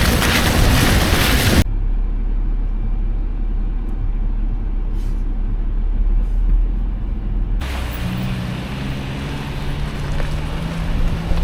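Off-road vehicle driving on a rough gravel road: loud wind noise on the microphone cuts off abruptly after a second and a half, leaving a low road rumble. Near the end the wind noise returns along with a steady engine hum.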